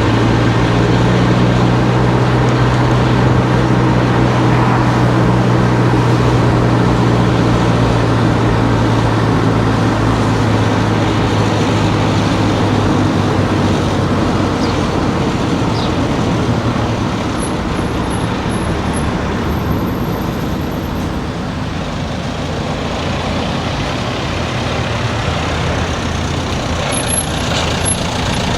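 A car driving through town streets: steady engine and road noise, with a low steady hum that fades out about halfway through.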